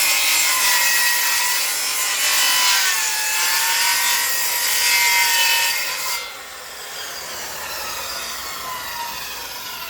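Circular saw ripping lengthwise through timber, its whine dipping and rising as the blade loads. About six seconds in the cut ends and the saw goes quieter.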